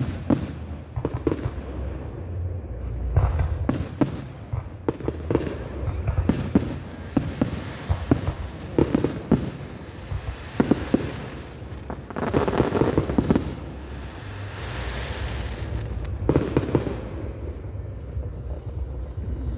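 Fireworks display: an irregular string of sharp bangs and pops, with thicker crackling bursts about twelve seconds in and again around sixteen seconds, over a steady low rumble.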